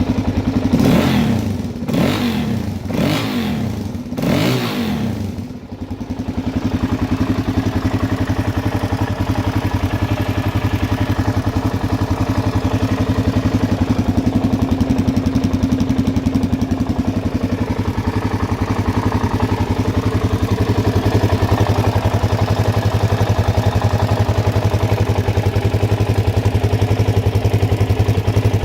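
2006 Suzuki DR-Z's single-cylinder four-stroke engine blipped four times in quick succession, then settling back to a steady idle.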